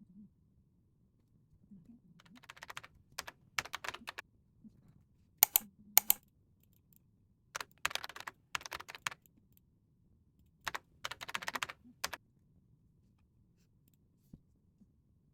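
Typing on a computer keyboard in four short runs of rapid key clicks with pauses between them.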